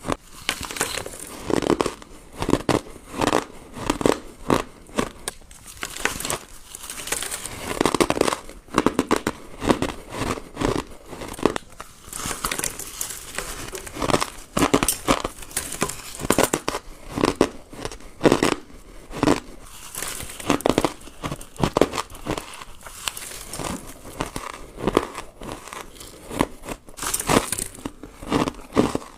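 A person chewing crunchy ice: repeated crunching and crackling in a steady chewing rhythm, with a louder crunch every half second or so.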